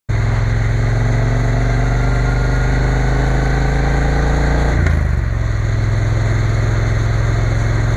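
Triumph Bonneville T120 parallel-twin engine under way, revs climbing slowly for about five seconds, then dropping sharply as the bike shifts up a gear and running on steadily.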